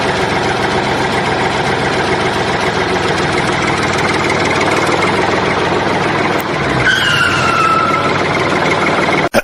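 An engine running steadily, with a brief falling two-tone whine about seven seconds in. The sound cuts off abruptly at the end.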